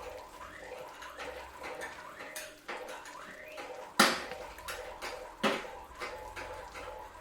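Kitchen utensils clinking and knocking against dishes and pans, with two louder knocks about four and five and a half seconds in.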